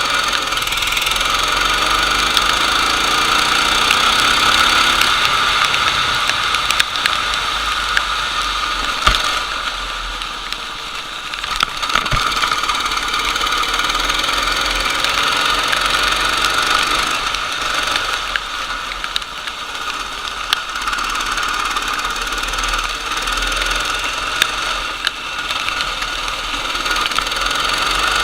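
Racing go-kart engine running under load, its pitch rising and falling with speed over a steady rushing hiss, with a few short clicks and knocks.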